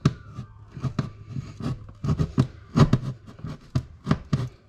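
A hand tool cutting through thin 3/8-inch sheetrock, making a run of short, sharp, irregular strokes, several a second.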